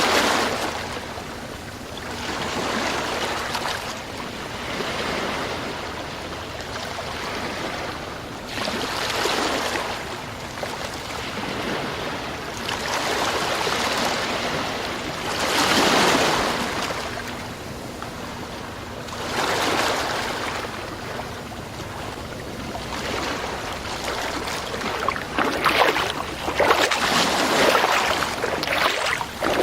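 Sea waves breaking and washing up a shore, a surge swelling and falling away every few seconds, with choppier, splashier wash near the end.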